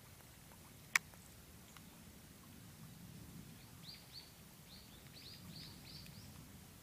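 A small bird gives a quick run of about nine short, high chirps, each falling slightly in pitch, over a faint low outdoor background; a single sharp click comes about a second in.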